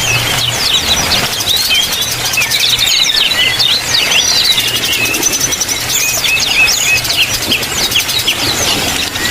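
Many small aviary birds chirping and calling at once, a dense unbroken chatter of short, quick notes.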